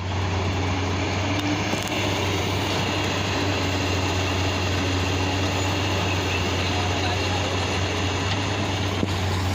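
Diesel engine of heavy earth-moving equipment running steadily, a low even drone with no change in pitch.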